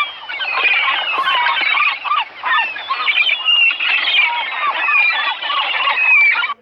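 A flock of seagulls calling, many overlapping squawks and short gliding cries at once.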